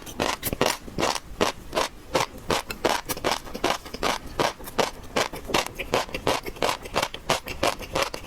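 A person chewing crunchy seafood, a run of crisp crunches and mouth clicks, about three or four a second.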